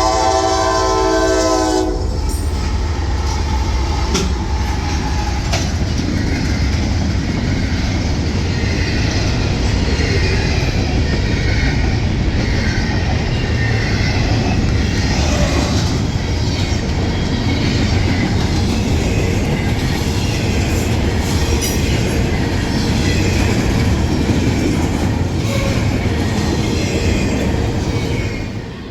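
Diesel freight train's air horn sounding a chord, cutting off about two seconds in, followed by the steady rumble and clickety-clack of the freight cars rolling past.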